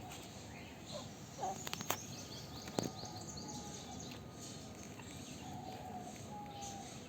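Small birds chirping in short, high calls over a steady background hiss, with a few sharp clicks about two to three seconds in.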